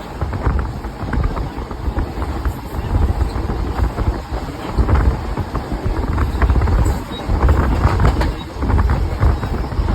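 A train running: a loud, steady low rumble with frequent short rattles and clatters.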